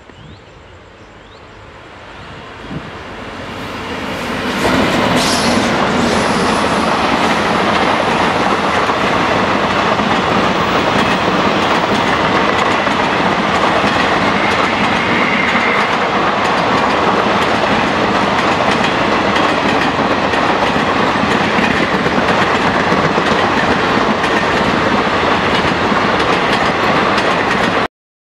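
Indian Railways express train passing close by at speed. It builds up over the first few seconds, then the coaches roll past in a steady loud rush until the sound cuts off abruptly near the end.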